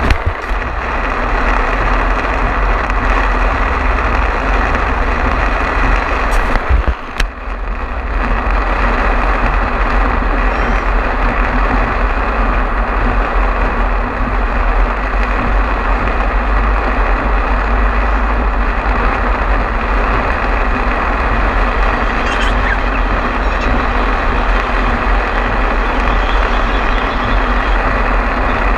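Heavy storm rain with the steady noise and low rumble of a vehicle driving on a wet highway, briefly dipping about seven seconds in.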